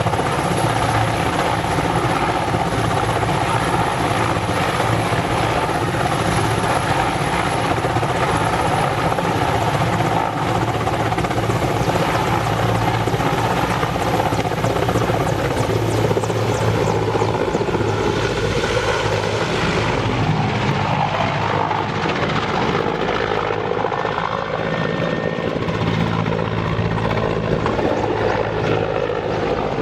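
Mi-8 transport helicopter's twin turboshaft engines and rotor running loud and steady. A thin high turbine whine fades out a little over halfway through, and the sound turns duller after that.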